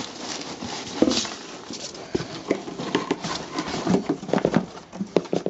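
Irregular knocks, taps and rustling of packaging being handled and pulled apart while a box is unpacked.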